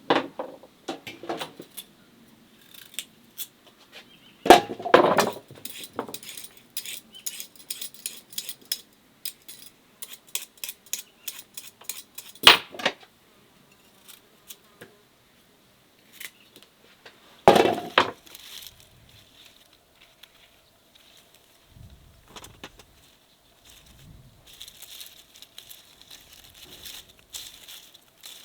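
Glass and kitchenware clinking and knocking during food preparation, in many quick irregular taps. A few louder knocks come about five, twelve and seventeen seconds in.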